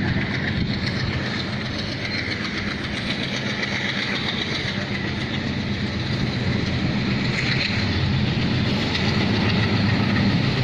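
Train running along the track: a steady, continuous noise with a low hum.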